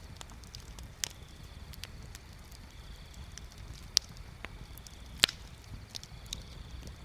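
Bonfire crackling, with scattered sharp pops, the loudest about four and five seconds in, over a low steady rumble. A faint high tone comes and goes.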